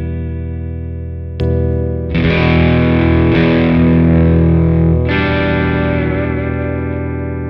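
Electric guitar played through a guitar amplifier and picked up by an Electro-Voice RE20 microphone. Sustained chords ring and fade, with new chords struck about one and a half seconds in, again at two seconds, and again around five seconds.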